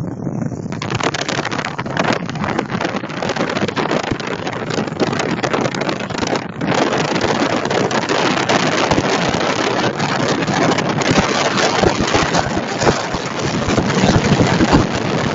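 Motorcycle running as it rides along, with wind rushing over the microphone; the sound dips briefly about halfway through and is a little louder afterwards.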